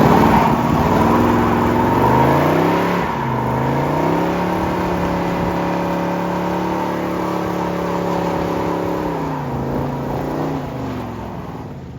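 A vehicle engine revving: its pitch climbs about three to four seconds in, holds steady for several seconds, then drops back and eases off near the end.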